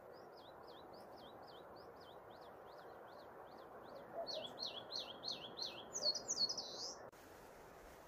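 A songbird singing a run of repeated down-slurred whistled notes, about three a second, that turn louder and quicker about four seconds in and end in a louder, higher phrase, over a steady background hiss. The song cuts off suddenly about seven seconds in.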